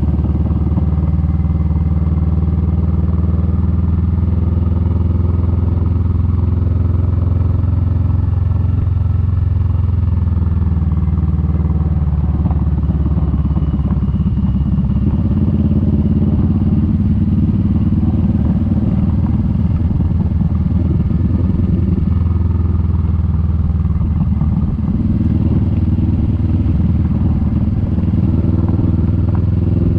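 Kawasaki Vulcan S 650's parallel-twin engine running steadily under riding load, its note shifting a couple of times along the way.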